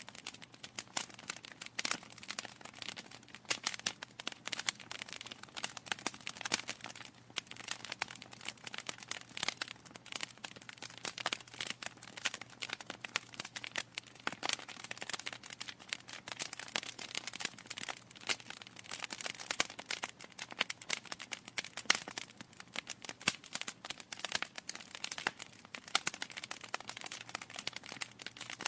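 Wood fire crackling steadily in a fireplace: a dense, irregular run of sharp pops and snaps over a faint hiss.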